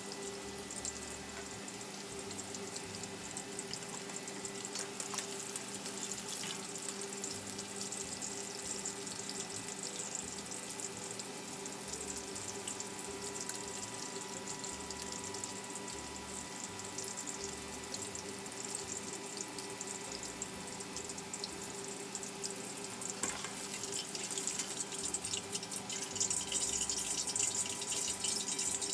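Water running steadily from a kitchen tap into a sink, getting louder near the end, over a steady electrical hum.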